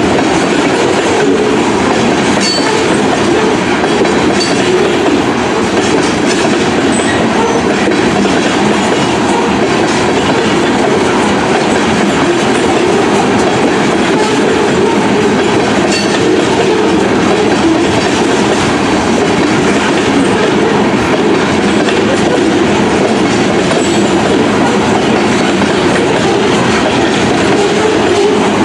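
Freight train of coal gondola cars rolling steadily past, steel wheels running on the rails with a loud, continuous rumble.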